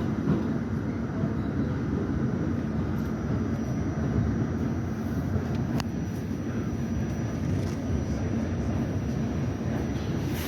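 R68 subway train running on the track: a steady, loud rumble, with a single sharp click about six seconds in.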